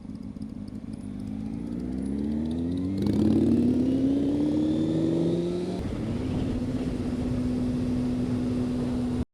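Motorcycle engine accelerating, its pitch rising steadily for about five seconds, then holding steady at cruising speed.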